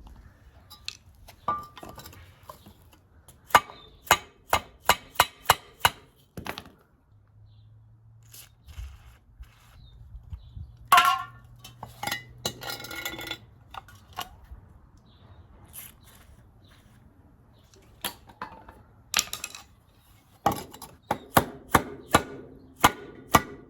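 Hammer blows on metal, in runs of several quick strikes with pauses between, working a seized suspension bushing loose on a 1991 Nissan Terrano D21.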